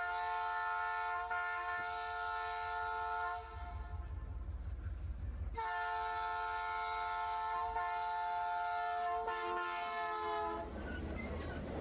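Diesel locomotive air horn sounding two long blasts of a chord of several notes: the first is already sounding and stops about three and a half seconds in, and the second starts about two seconds later and holds for about five seconds. A low rumble fills the gap between the blasts and continues after the second.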